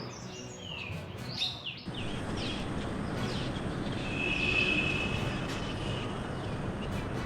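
Birds chirping in quick, repeated falling chirps; about two seconds in they give way abruptly to a steady rushing outdoor noise.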